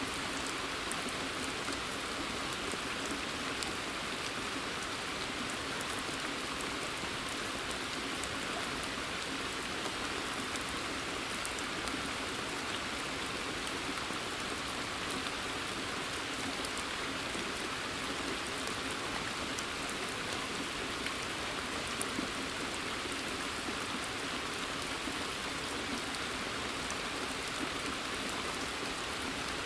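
Steady rain falling on forest foliage and a pond's water surface: a dense even hiss dotted with the ticks of individual drops, a couple of them louder about three-quarters of the way through.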